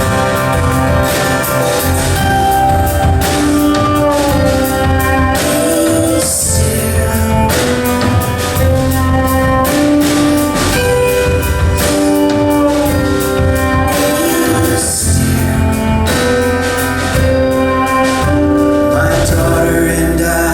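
Live band playing a contemporary Christian song's instrumental passage: a melody line over sustained chords, with steady drum and cymbal hits.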